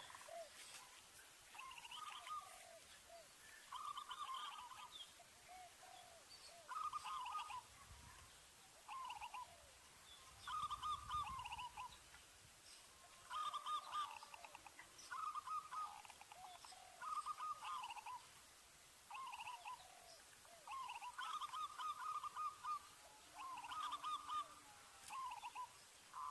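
Zebra dove (perkutut) cooing: short stuttering phrases of soft coos, repeated every second or two.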